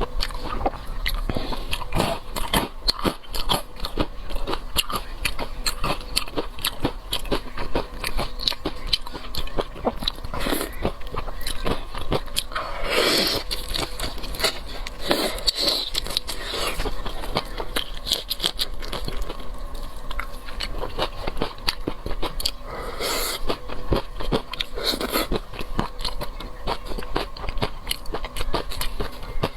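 Biting into and chewing crispy stuffed shrimp: a continuous run of crunches and crackles.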